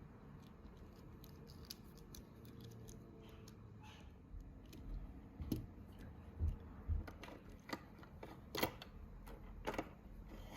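Light clicks and taps of small plastic parts as a tiny LEGO Technic car is handled, sparse at first, then more frequent and louder after about five seconds.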